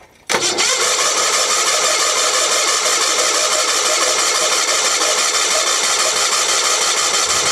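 Case 446 garden tractor's engine cranking on the starter for about seven seconds with an even, rapid pulsing, turning over without catching, then stopping. It will not fire because there is no spark: the ignition switch is sending no power to the coil.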